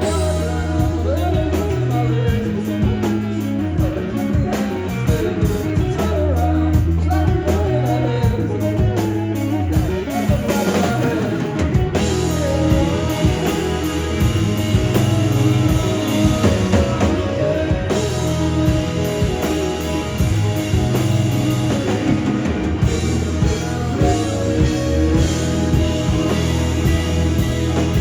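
Rock band playing live: drum kit keeping a fast beat over strong, low bass notes, with no break in the music.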